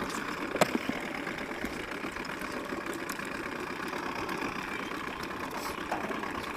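A small engine running steadily, with one sharp knock about half a second in.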